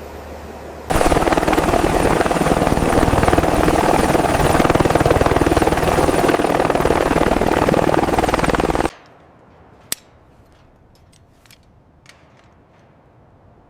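Helicopter rotor and engine noise, loud and dense, cutting in suddenly about a second in and cutting off abruptly about eight seconds later. A single sharp click follows in the quieter remainder.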